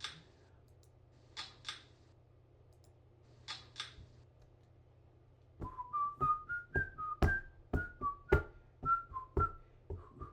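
Three pairs of quick clicks, then from about halfway through a person whistling a tune in short, separate notes that step up and down in pitch.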